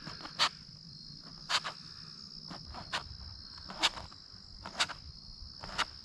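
Steady high-pitched chorus of crickets, with a sharp cutting click about once a second as a stack of flour tortillas is cut into pieces.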